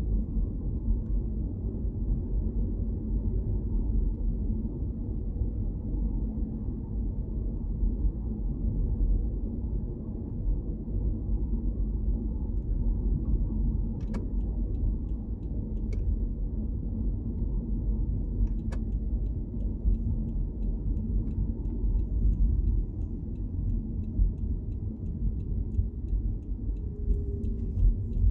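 Car driving, a steady low rumble of road and engine noise, with a few faint sharp clicks or rattles around the middle and the end.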